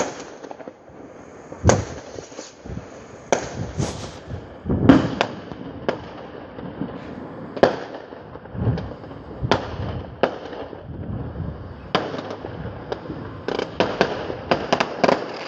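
Bonfire-night fireworks going off: an irregular string of sharp bangs and cracks, roughly one a second, with a quick cluster of crackling bangs near the end.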